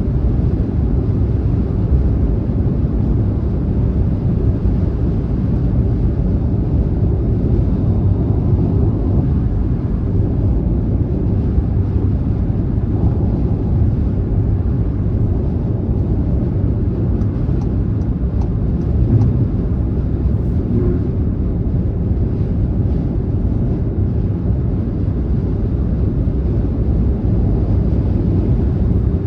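Car travelling at highway speed: a steady low rumble of tyre and road noise with engine drone.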